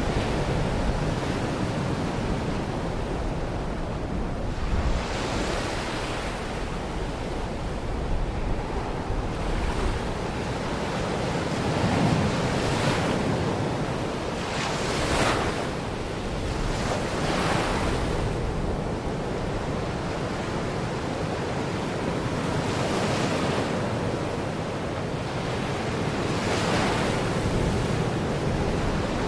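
Small Baltic Sea waves breaking and washing onto the shore, a fresh hiss of surf every few seconds over a steady rumble of sea, with wind on the microphone.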